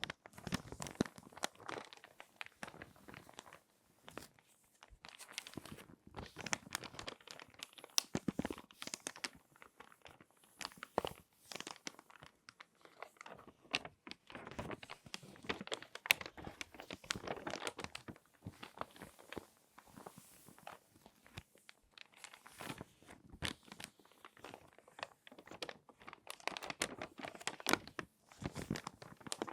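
Glossy magazine pages being folded and handled by hand, crinkling and crackling in irregular bursts with brief pauses between folds.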